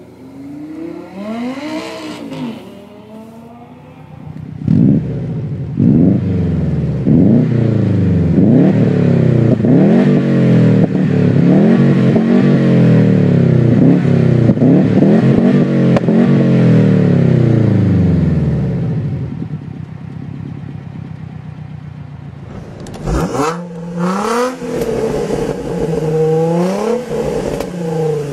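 High-performance car engines revving and accelerating hard. The pitch climbs and drops back again and again as the car pulls through the gears, then fades away. About 23 seconds in, another car's engine takes over, blipped up and down in short revs.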